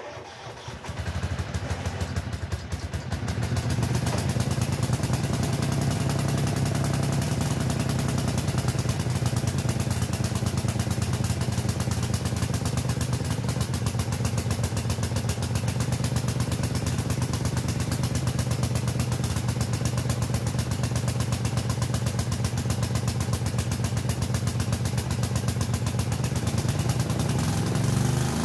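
Small engine of an old Craftsman front end loader tractor, started with a screwdriver instead of the key, picking up over the first few seconds and then running steadily.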